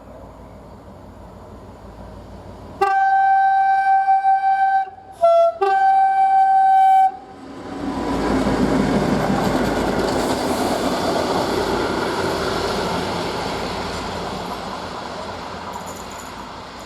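A train horn sounds a long blast of about four seconds, broken near the middle by a short lower note. Then a train moves off with a swelling rumble that slowly fades.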